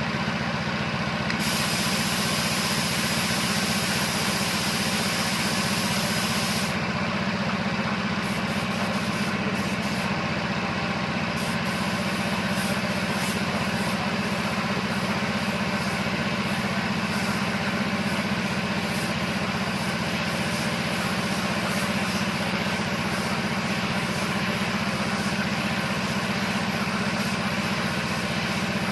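Air compressor running steadily, with a paint spray gun hissing in one long burst of about five seconds starting a second or so in, then in short bursts.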